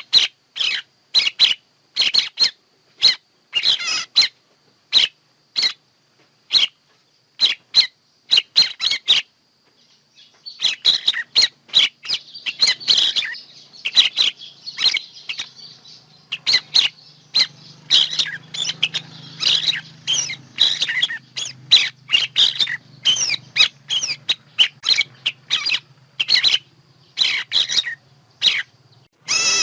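Songbird calls recorded for use as a bird-trapping lure: short, sharp, high chirps about twice a second, a pause about nine seconds in, then faster, denser chirping over a faint low steady hum.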